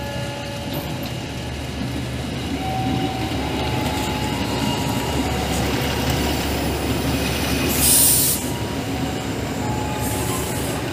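KAI inspection railcar rolling slowly into the station, its running gear and engine rumbling steadily, with brief thin squeals from the wheels on the rails. A short, loud hiss comes about eight seconds in.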